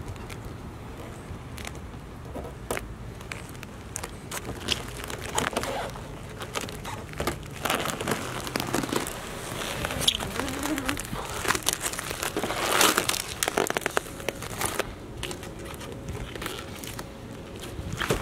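Vinyl car-wrap film crackling and crinkling as it is peeled from the paint and handled, in irregular runs of sharp crackles that grow busier about five seconds in and are loudest near the end.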